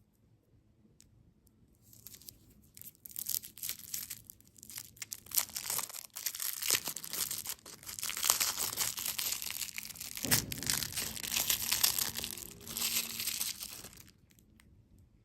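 Crinkling and tearing of packaging, a dense crackle of many small clicks that starts about two seconds in and stops near the end, with a soft knock about ten seconds in.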